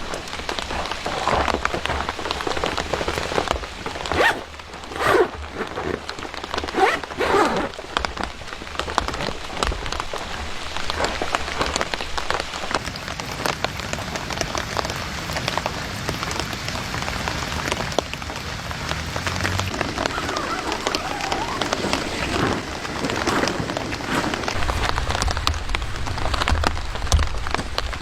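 Steady rain falling, with a dense patter of individual drops throughout. A few louder, irregular knocks or handling sounds stand out between about four and eight seconds in.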